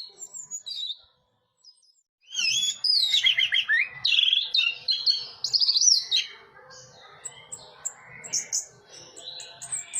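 Orange-headed thrush singing: after a short pause, a loud run of rapid, sweeping warbled phrases, then softer scattered high chirps.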